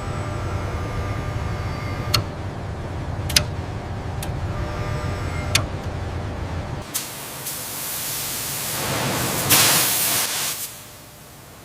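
Steady low machine hum with a few sharp clicks, then a loud hiss that swells for a few seconds and cuts off.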